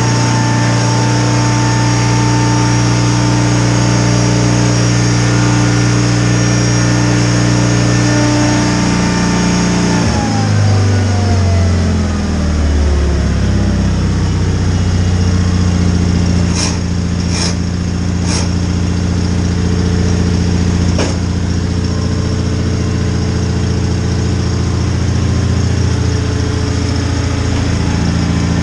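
John Deere 318 garden tractor's engine running steadily, then about ten seconds in its pitch falls as the engine slows and settles into a lower steady drone. Around the middle there are four sharp knocks.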